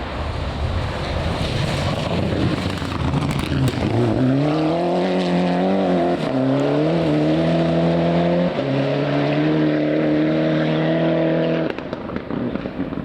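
Rally car engine accelerating hard along a stage: a rising engine note that drops back at each of several gear changes, then falls away suddenly near the end. Before that comes a first few seconds of noisy rushing with no clear engine pitch.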